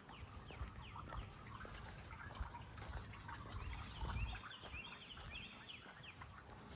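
Birds calling, with a run of quick, repeated falling chirps about halfway through, over scattered low thuds.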